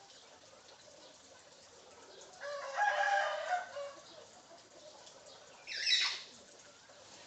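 A bird crowing like a rooster, one call of about a second and a half, followed about two seconds later by a short, high call.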